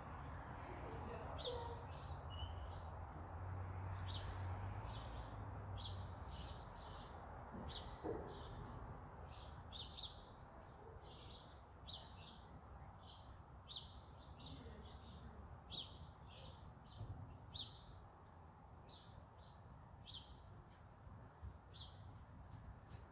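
A small bird chirping over and over, about one or two short high chirps a second, over a low rumble that fades after the first few seconds.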